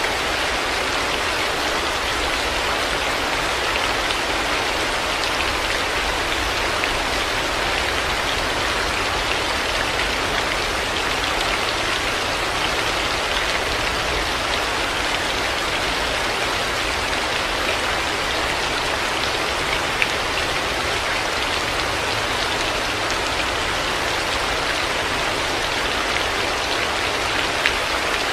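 Heavy rain falling steadily, a dense even patter with scattered louder drop ticks.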